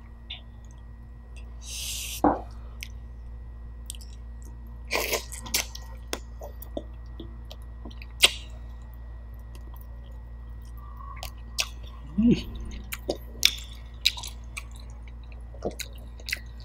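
Close-up eating of roast chicken: wet chewing and lip smacks, with scattered short sharp clicks as meat is bitten and pulled from the bone. A handful of louder smacks stand out.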